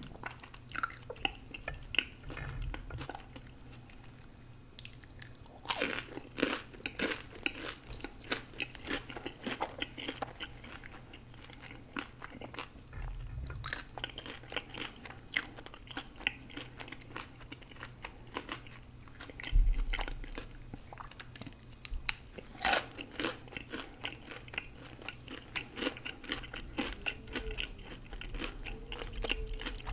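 Close-miked eating sounds: a person biting and chewing, with steady crunching and a few louder, sharper crunches.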